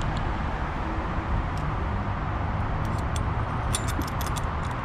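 Steady low background rumble, with a quick run of light clicks and taps near the end as the metal camera mount parts are handled and fitted.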